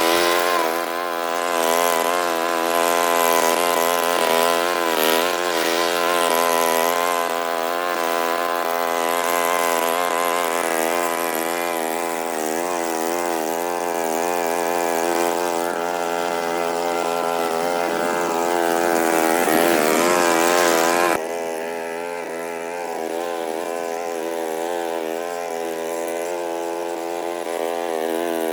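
Lawn mower's small petrol engine running steadily, its pitch wavering slightly under load. About two-thirds of the way through, the sound abruptly turns quieter and duller while the engine keeps running.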